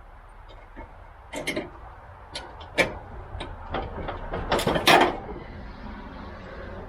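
A series of sharp knocks and clatter from working on a riding lawn mower, a few single knocks and then a louder burst of several near the end, over a steady low hum.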